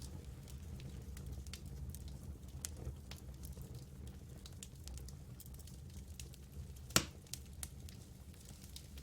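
Wood campfire burning with a low steady rumble and scattered small crackles, and one sharp loud pop about seven seconds in.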